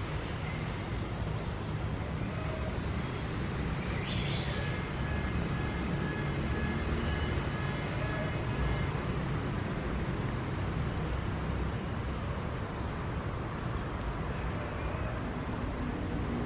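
Steady outdoor background noise with a low rumble, over which small wild birds give a few brief, high chirps, about a second in and again near the end.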